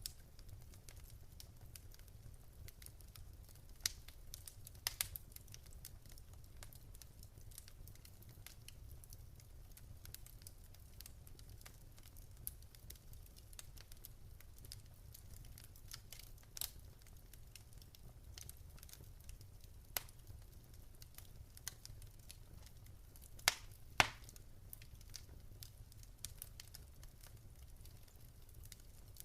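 Wood fire crackling in a fireplace: scattered sharp pops and snaps over a low steady rumble, with two louder pops close together near the end.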